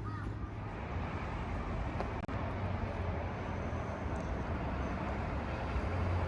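Steady outdoor street noise of road traffic, with a low hum, broken by a momentary dropout a little over two seconds in.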